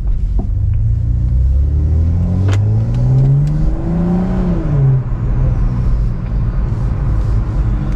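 BMW M340i's turbocharged 3.0-litre inline-six accelerating, its pitch climbing for about four seconds before falling back, then running steadily under way. There is a sharp click about two and a half seconds in.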